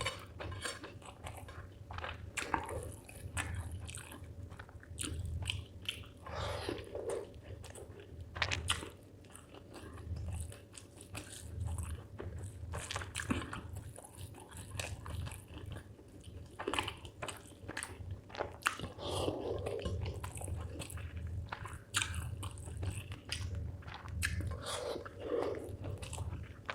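Close-miked mouth sounds of a person eating chicken liver with rice: chewing, with many irregular wet clicks and smacks.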